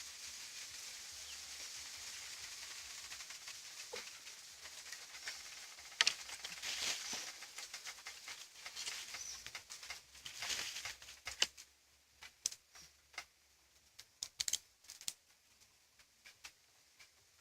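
Dry straw and twigs crackling and rustling. A steady hiss gives way about six seconds in to a stretch of dense crackles, which thin out to sparse sharp snaps near the end.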